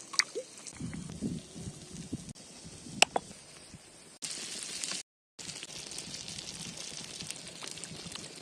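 Cooking sounds across short edits: a few sharp clinks, the loudest about three seconds in, over wet, liquid handling sounds, then a steady frying sizzle through the last three seconds.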